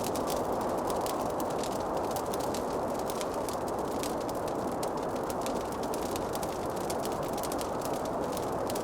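Wood fire crackling in a fireplace: a steady rushing of flame with many small, sharp crackles and pops scattered throughout.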